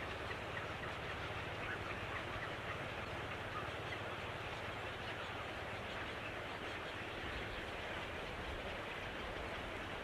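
A steady rushing noise with a few faint, short bird chirps in the first few seconds.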